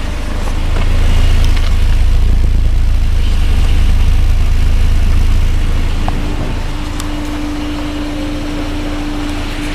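Volvo 240's B230FX 2.3-litre four-cylinder engine idling after a cold start, a steady low rumble that grows louder for a few seconds and then settles back. A steady higher tone joins in about two-thirds of the way through.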